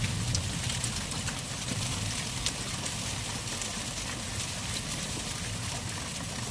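Hail falling: a steady dense hiss with a few scattered sharp ticks of single hailstones striking, over a low rumble.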